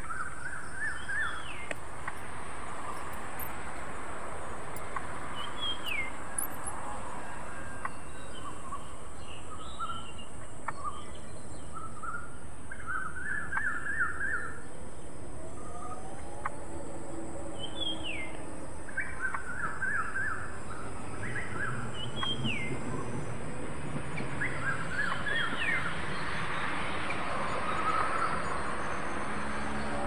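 Several birds calling: short hooked chirps and quick trilled phrases recurring every few seconds over a steady outdoor hiss.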